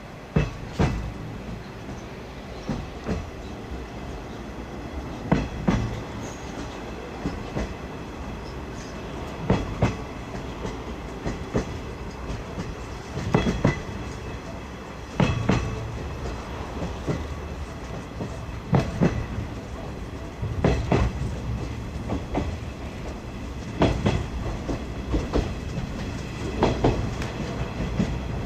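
Wheels of a 50-series passenger coach running over jointed rail, heard from inside the coach: a steady rumble with sharp clacks at the rail joints, about one clack or quick pair every two seconds.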